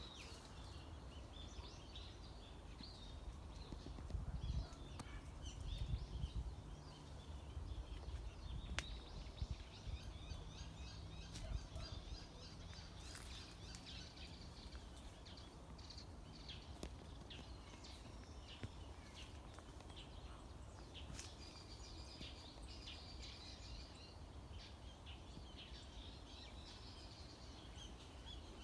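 Wild birds chirping and singing, many short high calls overlapping throughout, over a faint low rumble that swells for several seconds early on.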